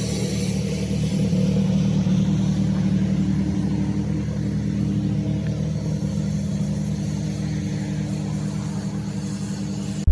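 Mazda RX-7's rotary engine running steadily while driving, swelling slightly about two seconds in.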